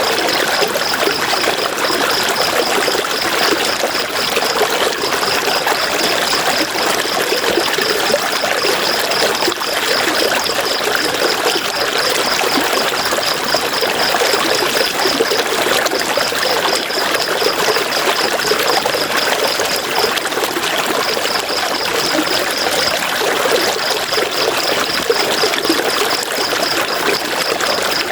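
River water flowing and splashing over stones in a steady, loud rush. A high, fast-pulsing trill runs over it, breaking off briefly a few times.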